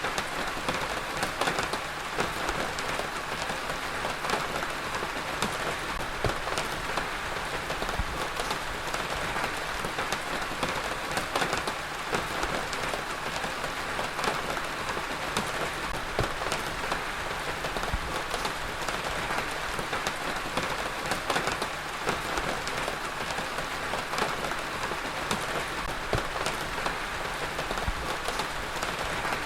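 Heavy rain falling steadily, a dense hiss with many close drops pattering on a surface.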